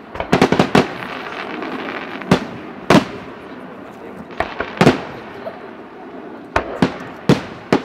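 Aerial fireworks shells bursting: a quick cluster of bangs near the start, then single bangs every half-second to second, with crackling between them.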